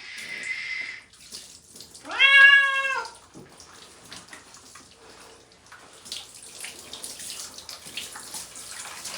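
A domestic cat yowling in distress while being bathed: one long, loud meow about two seconds in that rises and falls in pitch. Between the cries, water runs and splashes.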